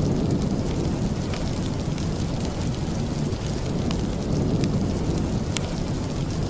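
Steady rain falling, heavy in the low end like a distant rumble, with a few scattered sharp ticks.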